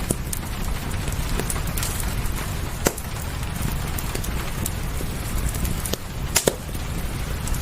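Wood fire crackling, with a few sharp pops, the loudest a quick double pop near the end, over a steady hiss of rain.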